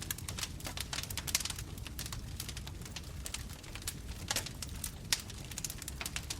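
Bonfire crackling: dense, irregular pops and snaps of burning wood over a low steady rumble of the flames.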